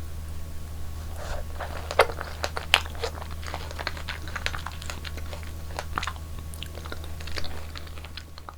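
Close-miked eating sounds: someone chewing and biting strawberries and strawberry cream cake in a run of soft crunches and wet mouth clicks. The sharpest come about two and almost three seconds in. A steady low hum runs underneath.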